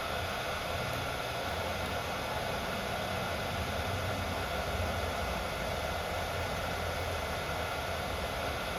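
Steady hiss over a low hum, unchanging throughout, with no distinct events.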